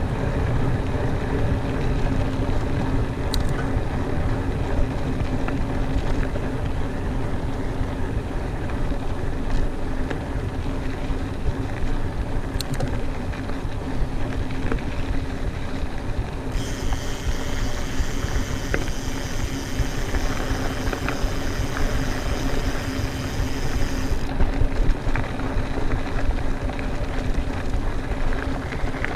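Mountain bike rolling fast along a dirt trail: a steady rumble of tyres with wind on the microphone, and a high buzz for about eight seconds in the middle.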